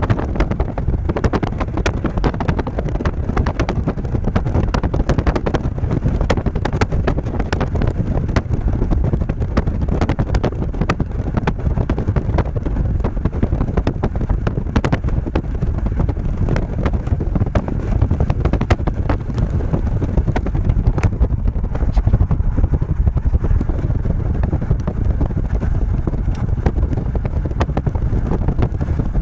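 Heavy rain with wind buffeting the microphone: a steady low rumble with a dense patter of sharp ticks.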